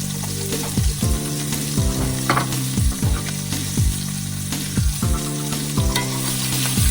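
Food sizzling as it fries, a steady hiss, under background music with a steady beat of deep, falling kick drums.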